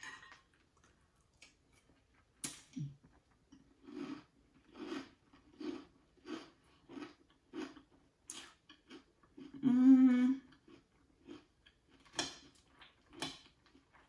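Close-up chewing of a mouthful of sweetened corn-puff cereal in milk, about three chews every two seconds. A spoon clinks against the glass bowl about two seconds in and again twice near the end. A short hummed 'mm' about ten seconds in is the loudest sound.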